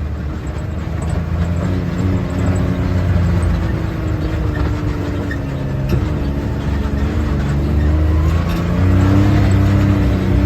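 Vehicle engine running under way, its pitch stepping up and down several times as the speed changes, and getting a little louder near the end.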